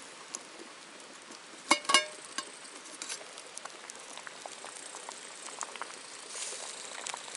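Food frying in a pan, a steady sizzle with small crackles. About two seconds in, a metal utensil clinks sharply against the pan twice.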